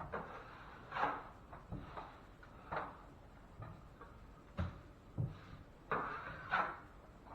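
Drywall knife scraping over setting hot-mud joint compound on a ceiling patch, in a string of short irregular strokes with a few low knocks, as the mud is slicked out.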